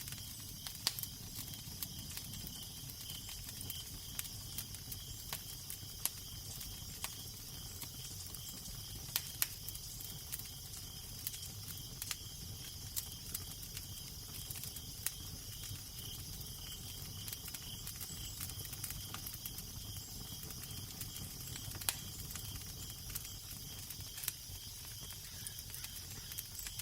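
Crackling fire: scattered sharp snaps and pops at irregular intervals over a steady hiss, with a low steady rumble underneath.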